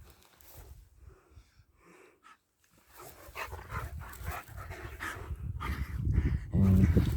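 German Shepherd dogs panting and breathing hard at play. The first few seconds are nearly quiet, and the panting grows louder from about three seconds in.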